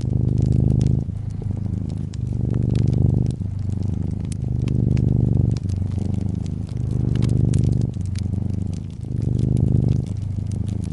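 Brown tabby cat purring, swelling and easing with each breath in and out about every second. Over it a fireplace crackles with scattered sharp pops.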